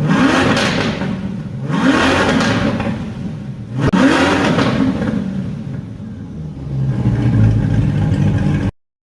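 Chevrolet Corvette C8's V8 through a custom exhaust, revved in three quick blips about two seconds apart, each rising and falling in pitch. A lower, steadier run follows, then the sound cuts off suddenly near the end.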